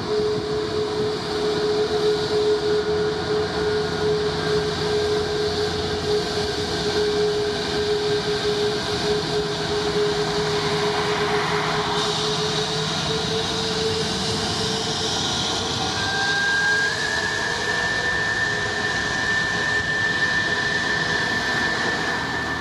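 Jet airliner engines running with a steady whine over broad engine noise; the pitch of the whine shifts a little partway through.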